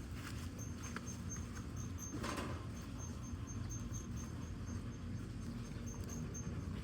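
Firewood burning in a fire pit: a low steady rumble of flame with scattered sharp crackles and pops, one louder crackle about two seconds in. A high, evenly pulsing chirp repeats about five times a second.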